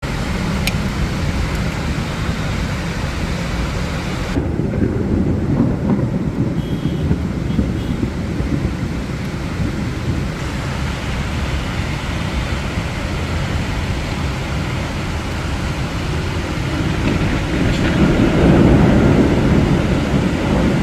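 Heavy downpour in a thunderstorm: rain pouring steadily over a deep, continuous rumble, with a louder swell near the end.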